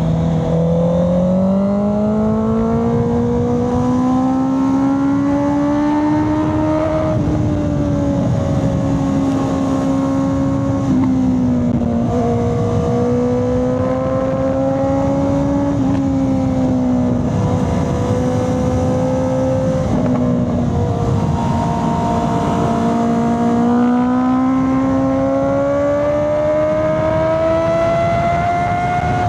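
Honda CB650R's inline-four engine and exhaust under way, the note rising as the revs climb. The pitch dips and holds several times as the throttle comes off and on, then climbs steadily over the last several seconds.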